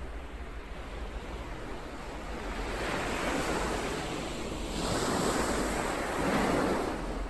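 Ocean waves surging in and washing back, swelling in three louder rushes about three, five and six and a half seconds in, the last the loudest, then falling away.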